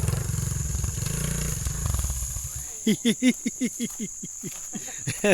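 Dirt bike engine idling, which stops about two and a half seconds in. Then comes a rapid run of short calls, each falling in pitch, about four or five a second, over a steady high whine.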